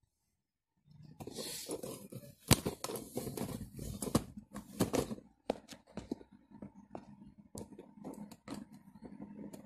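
Rustling with scattered sharp clicks and knocks, as of things being handled; no engine is running.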